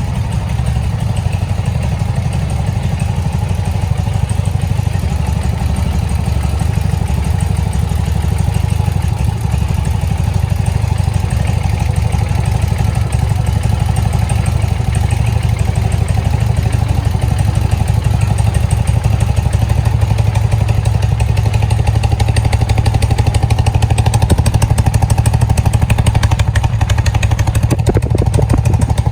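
1978 BMW R80/7's air-cooled boxer twin engine running steadily with a fast, even beat, growing slightly louder toward the end.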